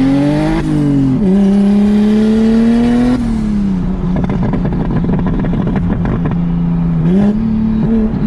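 BMW N54 3.0-litre inline-six with a big single turbo, pulling hard with its pitch climbing, dropping on an upshift about a second in and climbing again. About three seconds in the throttle comes off, and the engine falls away into several seconds of rough crackling and popping on the overrun, then picks up briefly near the end.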